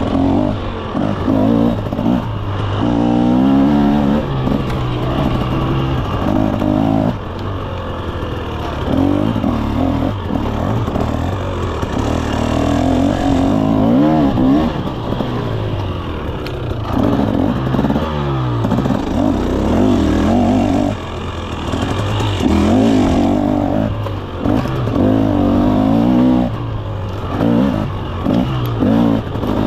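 2024 KTM 300 SX two-stroke dirt bike engine being ridden, revving up and down over and over with short throttle drops between bursts.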